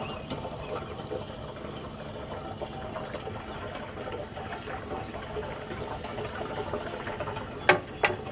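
Gasoline pouring from a plastic gas can with a spill-proof spout into the sawmill's fuel tank, a steady trickle, with two sharp clicks near the end.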